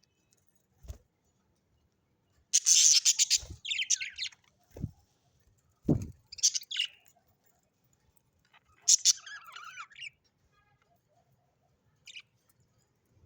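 Parrots giving several harsh, chattering calls in separate bursts, the loudest about two and a half seconds in, with a few soft low thuds between them.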